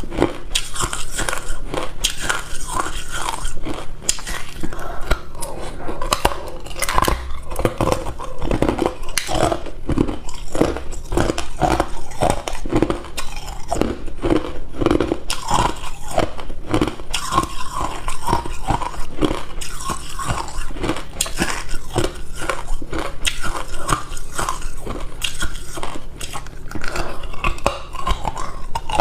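A person biting and chewing hard cube ice close to the microphone: dense, irregular crunches one after another.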